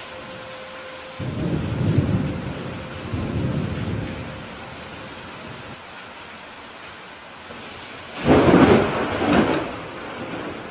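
Steady rain with thunder: a low rolling rumble starts about a second in and fades over a few seconds, then a louder, sharper thunderclap comes about eight seconds in.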